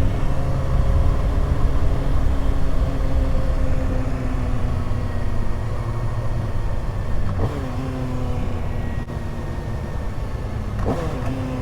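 Kawasaki Ninja ZX-6R's 636 cc inline-four engine running at low revs, its note slowly falling as the bike slows. Two downshifts, about seven seconds in and again near the end, each briefly kick the revs up.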